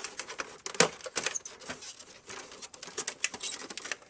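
Irregular clicks, taps and scrapes of parts being handled as the IDE cable is worked loose from the DVD drive inside the recorder, with one sharper knock about a second in.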